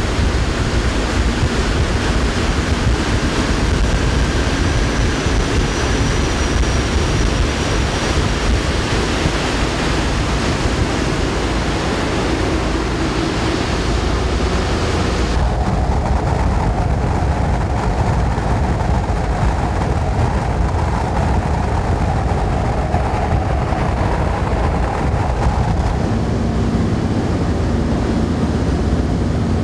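Steady, loud drone and wind rush of a B-17 Flying Fortress's four Wright R-1820 Cyclone radial engines, heard from inside the fuselage. The high hiss dulls abruptly about halfway through, and a steady low hum comes in near the end.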